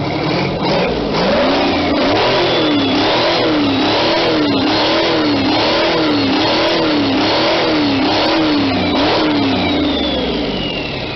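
V12 Detroit Diesel two-stroke diesel engine revved up and down over and over, its pitch rising and falling about once every second, before easing back near the end.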